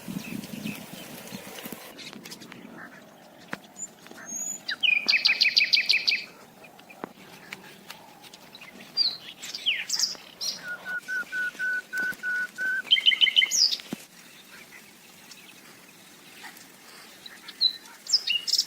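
Several birds calling in the open: a fast, loud trill about five seconds in, then a run of about eight evenly spaced single piping notes, another short trill, and scattered chirps near the end.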